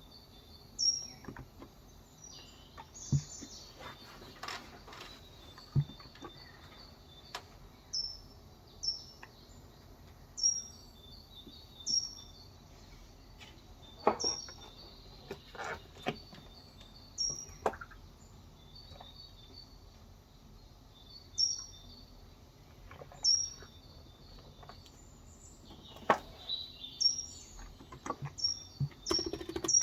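A bird repeating a short, high, falling chirp every second or two, with a few scattered soft clicks in between.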